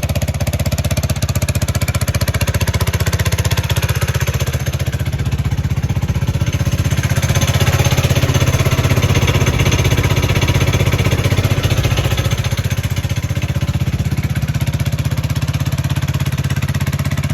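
Carter Brothers Grave Digger's engine idling steadily with a fast, even pulse while it warms up after a cold start; it has a lot of compression, you can hear it. It runs a little louder for a few seconds midway.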